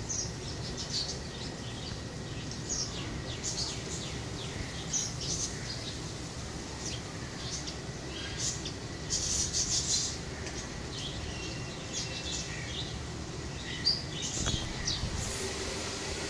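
Small birds chirping: many short, high calls scattered throughout, most crowded about nine to ten seconds in, over a steady low background noise.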